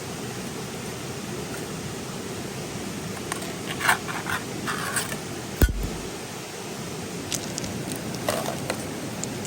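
Steady rush of a flowing river, with brief scraping and rustling handling noises and one sharp thump just past the middle.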